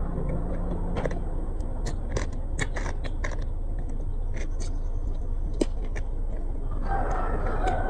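Close-up chewing of crunchy food, mock roast pork and fresh cucumber, with many short sharp crunching clicks. Underneath is a steady low background rumble that grows louder near the end.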